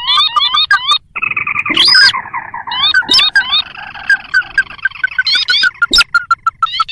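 Ruddy-breasted crakes calling: fast series of short upswept whistled notes and a dense chattering trill about a second in, then a long steady run of short notes at about five a second. A few sharp clicks cut through, around two seconds in and near the end.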